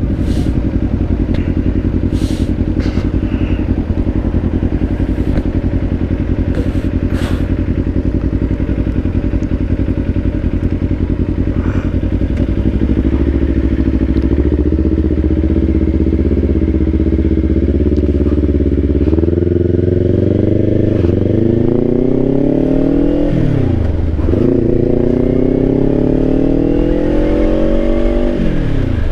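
Kawasaki Ninja 500's 451 cc parallel-twin engine running at a steady pitch for most of the stretch. It then pulls up through the revs, with two upshifts where the pitch drops sharply and climbs again. A few short clicks sound in the first several seconds.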